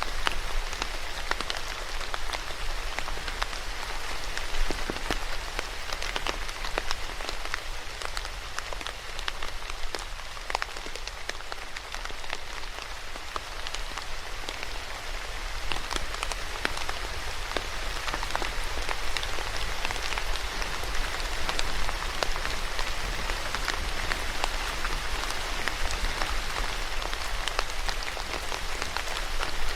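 Steady rain falling on a surface, with many individual drops ticking sharply over the constant patter.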